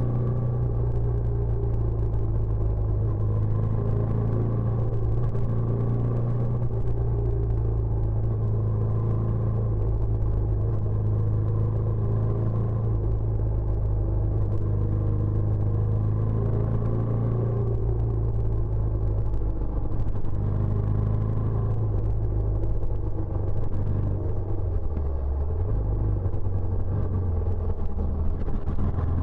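Benelli Imperiale 400's single-cylinder engine running steadily through its stock exhaust, a low, even rumble with a slight dip in pitch late on.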